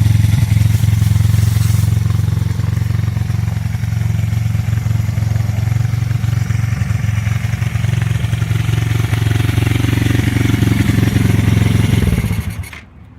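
FXX FX1 pit-style dirt bike's Pitster Pro single-cylinder four-stroke engine running at a steady idle, then shut off near the end, dying away within about half a second.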